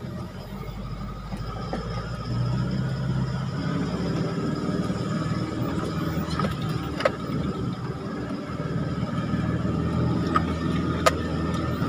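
Four-wheel-drive vehicle's engine running under load on a rough, rutted dirt track, heard from inside the cab, growing louder about two seconds in. A few sharp knocks from the cab break in near the end.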